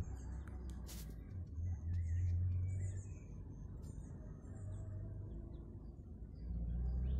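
Faint, short, high bird chirps scattered over a low steady rumble on the microphone, the rumble swelling twice.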